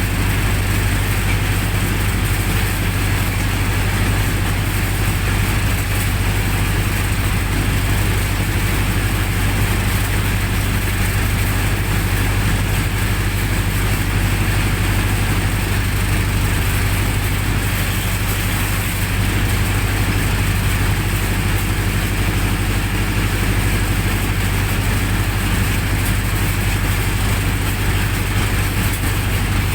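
Generator set engine running steadily at constant speed, with an even low hum and no change in pitch or level.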